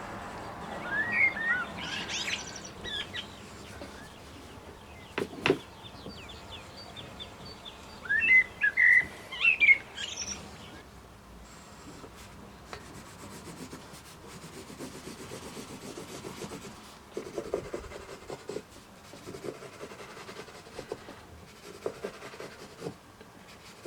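Wild birds chirping and singing, in two bursts of quick up-and-down calls, the first about a second in and the second about eight seconds in. A single sharp knock comes about five seconds in, and faint rubbing sounds follow in the second half.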